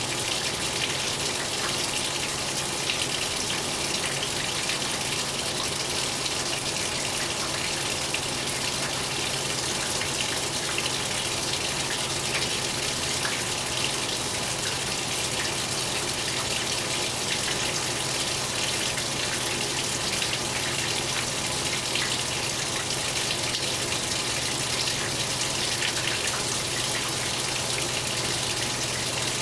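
Speed Queen 8 Series top-load washing machine filling, water gushing steadily into the tub, with a low steady hum underneath.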